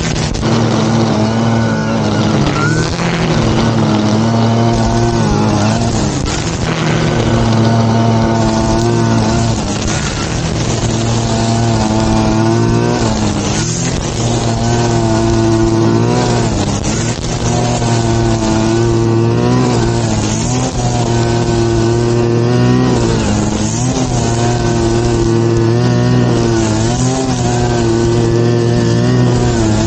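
Small engine of a grass-cutting machine running continuously at working speed, its pitch repeatedly dipping and rising again.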